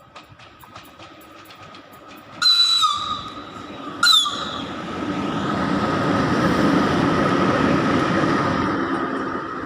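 VL80 electric locomotive running light sounds its high-pitched signal whistle twice, a half-second blast and then a shorter one, each sagging in pitch as it stops, a greeting from the crew. The locomotive then passes, its rumble swelling and easing off near the end.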